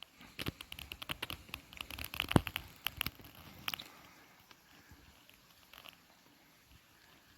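Footsteps crunching in frozen snow: a quick, irregular run of sharp crunches for about four seconds that then thins out to a few faint ticks.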